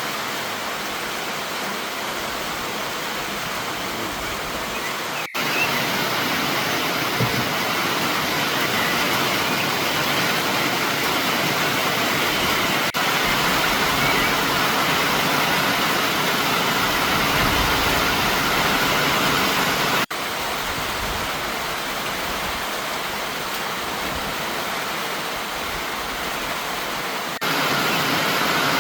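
Heavy rain pouring down, a steady hiss with no pitch, which jumps abruptly in loudness several times where the footage is cut.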